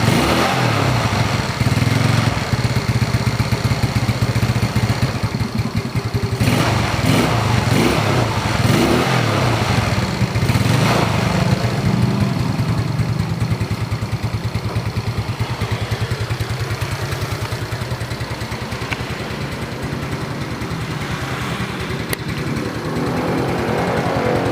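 Yamaha Mio scooter's single-cylinder four-stroke engine, bored up to 130 cc, running through its stock factory muffler that has not been drilled out. It idles with several short revs in the first half, settles to a steady idle, and picks up a little near the end.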